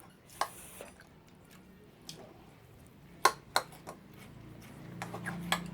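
Scattered light clicks and clinks of plates and utensils during a meal, a few sharp ones standing out.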